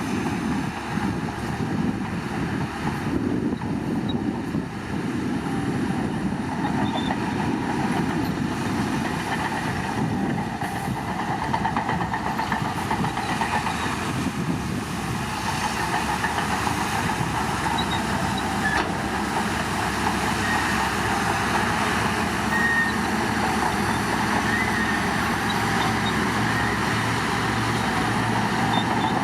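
Bulldozer's diesel engine working steadily under load, with a dense, even mechanical clatter. A steady low engine note comes in near the end.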